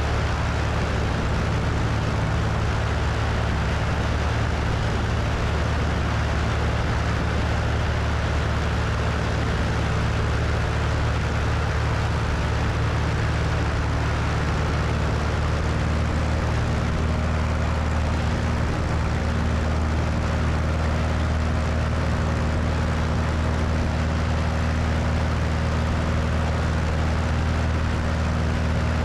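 Cessna 172's piston engine and propeller running steadily in flight, heard from outside on the wing, with a constant rush of wind. The engine's low drone holds steady, its note shifting slightly about halfway through.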